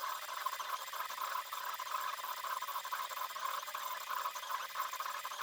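Onefinity CNC's stepper motors driving the gantry as it moves the pen across the paper: a steady high whine that flickers rapidly, with a hiss above it.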